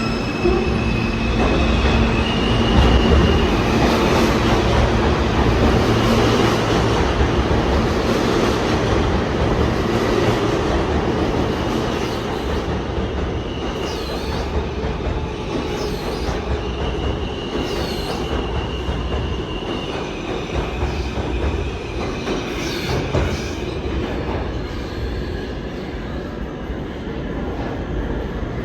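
New York City subway train running through the station: a steady rumble of wheels on rail with short high-pitched wheel squeals, and clacks over rail joints about every two seconds in the second half.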